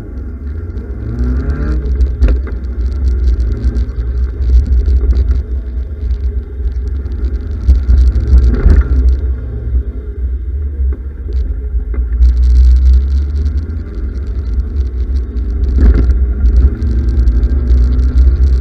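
Westfield Sei kit car's 1.3-litre Ford crossflow four-cylinder engine pulling away and accelerating hard, its revs rising and falling repeatedly through the gears and corners, over a heavy low rumble from the open cockpit.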